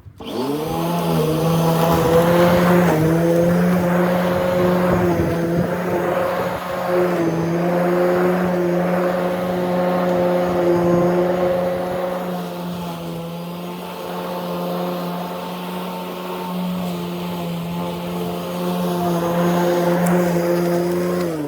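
Lawn mower motor starting up with a quick rise in pitch, running at a steady speed, then winding down with a falling pitch as it is switched off at the end.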